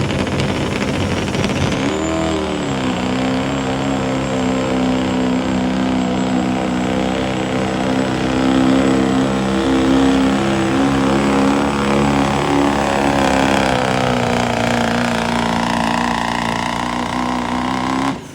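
Engine of a pulling truck or tractor running at full throttle under load during a pull. Its pitch dips about two seconds in, then holds at high revs, and the sound stops abruptly near the end.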